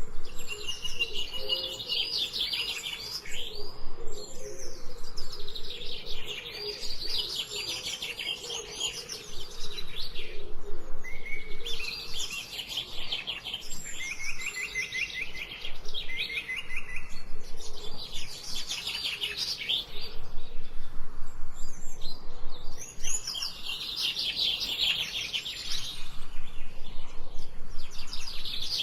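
Songbirds singing in a forest: rapid, high trilled phrases from several birds, overlapping and repeating every few seconds.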